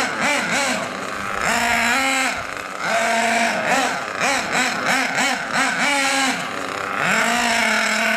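GRP nitro engine of a radio-controlled car, still being broken in, revving up and down in quick throttle blips and held at steady high revs for a second or so at a time, the longest stretch starting about seven seconds in.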